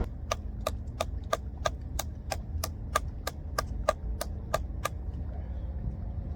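A run of about fifteen evenly spaced sharp clicks, about three a second, that stops about five seconds in.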